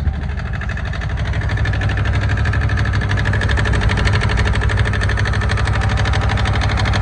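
Yanmar YM146 compact tractor's diesel engine running steadily, a little louder from about two seconds in.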